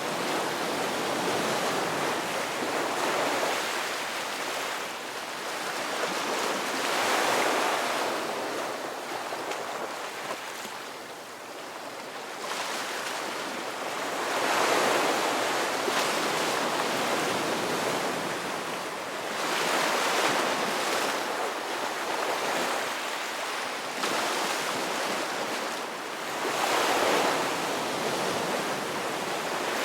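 Ocean waves breaking and washing on a shore, a steady surf hiss that swells with each wave every few seconds.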